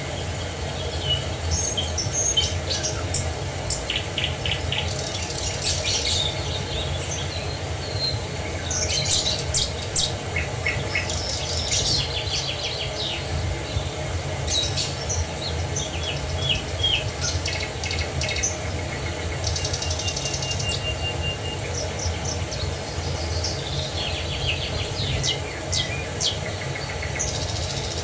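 Songbirds chirping and singing short, fast trills again and again over a steady rushing haze of falling water.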